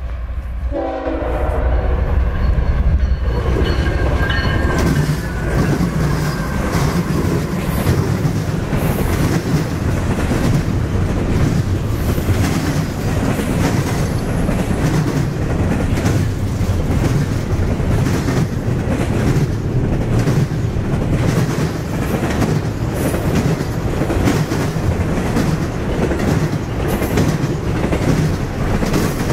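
CSX diesel freight train passing close by: a last short horn blast about a second in and the low rumble of the locomotives going by, then a long run of double-stack intermodal container cars rolling past with rapid clickety-clack of wheels over the rail joints.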